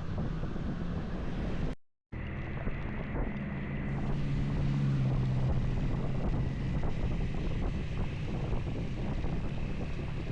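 Motorcycle engine running steadily while riding, with wind buffeting the camera microphone. The sound cuts out completely for a moment about two seconds in.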